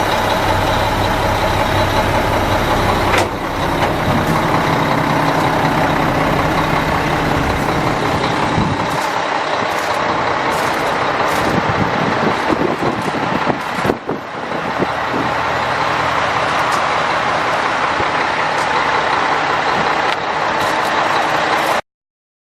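Mack E7-330 inline-six diesel engine in a 1999 Mack CH613 truck, running steadily, before the sound cuts off suddenly near the end.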